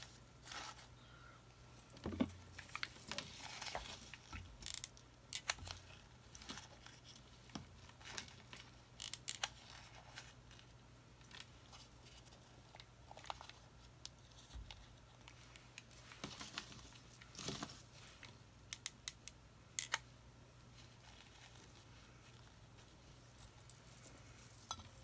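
Faint rustling and scattered sharp clicks of artificial flowers being handled and arranged on a grapevine wreath, with a steady low hum underneath. The handling sounds thin out after about twenty seconds.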